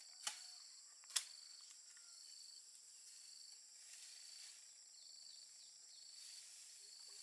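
Insects chirping in the background: a steady high drone with a short high chirp repeating about once a second. Two sharp knocks come in the first second or so.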